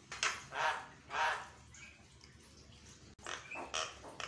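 Javan myna giving harsh, rasping calls: three in the first second and a half, then a quicker run of shorter calls near the end.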